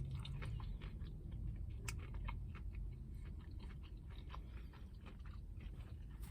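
Close-miked chewing of a crispy hand-breaded spicy chicken sandwich: a run of small wet mouth clicks and light crunches.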